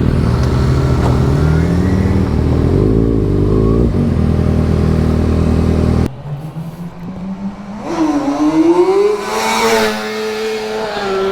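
Sportbike inline-four engines running and revving, pitch climbing about a second in. About six seconds in the sound changes abruptly. A single bike's engine then revs up and holds a high, steady note, as a rider pulls a wheelie.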